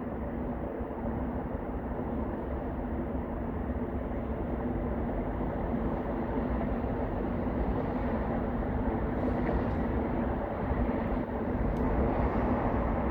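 A steady low mechanical rumble with a constant hum running through it, getting a little louder near the end.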